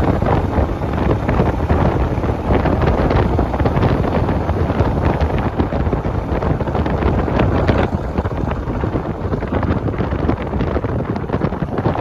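Wind buffeting the microphone of a moving motorcycle, a loud gusting rush with the bike's engine and road noise underneath.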